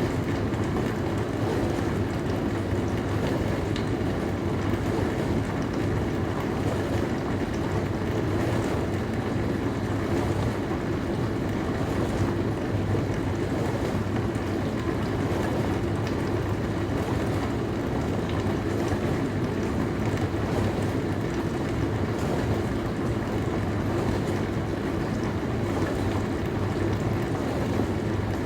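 Dishwasher running mid-cycle: water spraying and sloshing inside the tub over a steady low pump hum, unchanging throughout.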